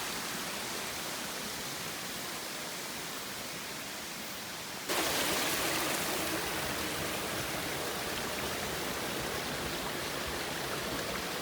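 Waterfall water rushing steadily, as an even hiss. About five seconds in it abruptly becomes louder and fuller.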